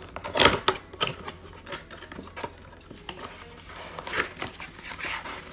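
A cardboard trading card box being torn open, with a loud rip about half a second in, then a few sharp clicks and the rustle of card packs being handled near the end.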